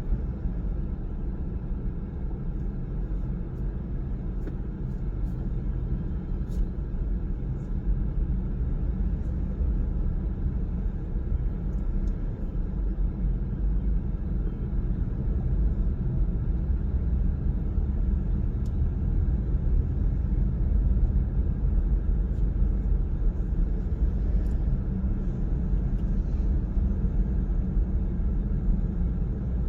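Steady low rumble of a car driving at speed, made up of tyre and engine noise, which grows a little louder about halfway through.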